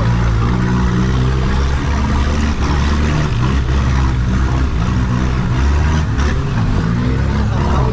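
Vehicle engine running steadily, its pitch stepping up and down as the revs change.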